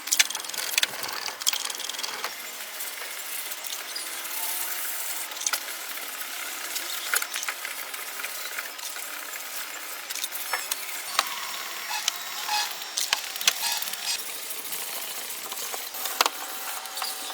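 Irregular mechanical clicks and rattling over a steady hiss.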